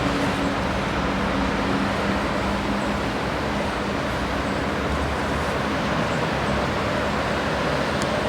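Honeybees humming around an open hive, a low drone that comes and goes, over a steady rushing noise.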